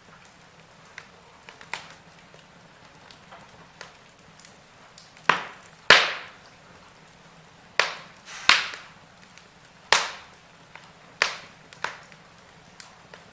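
Wood fire in a fireplace crackling, with small scattered snaps for the first few seconds and then a run of about seven loud sharp pops, over a faint steady hiss.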